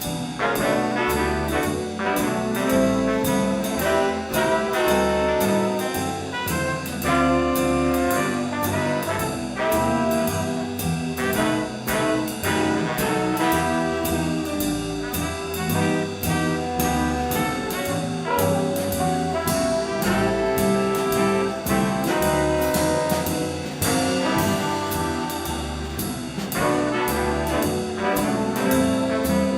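Swing band playing an instrumental number: a horn section of saxophones, trumpet and trombone over upright bass, guitar and drums, with a steady beat.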